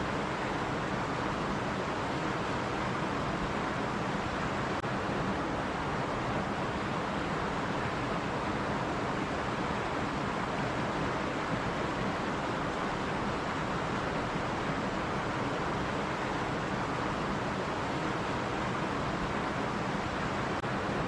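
Small stream running steadily over rocks: an even rushing of water with no breaks.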